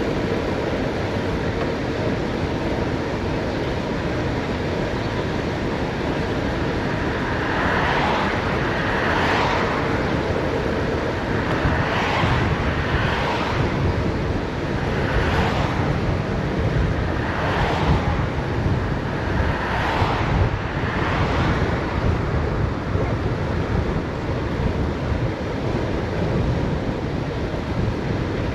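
Wind rushing over the microphone during a fast downhill bicycle ride, a loud steady roar. Between about 8 and 21 seconds about eight short hissing swells rise over it, several in pairs.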